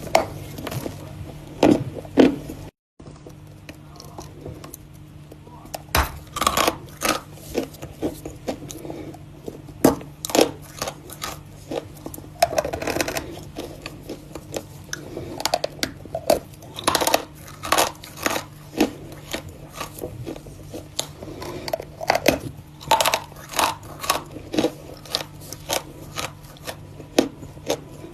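Close-up biting and crunching of something brittle, with many sharp, irregular crackles and chewing, and a brief silent gap about three seconds in.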